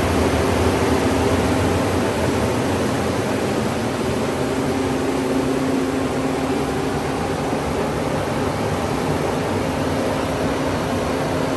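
LP-gas-fired corn grain dryer running, its electric fan and burner making a loud, steady rushing noise with a low hum.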